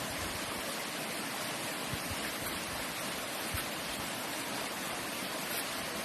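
Steady rush of flowing water, with a couple of soft low knocks about two and three and a half seconds in.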